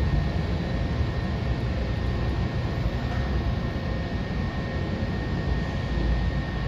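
A train rolling past with a steady low rumble and a faint steady high whine.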